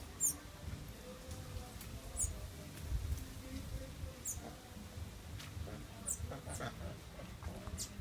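Small bird giving very high, thin chirps, about six of them a second or two apart, each falling in pitch. Under them is a low wind rumble on the microphone.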